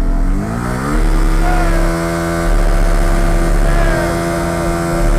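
Car engine revving up over the first second, then held steady at high revs, as in a burnout.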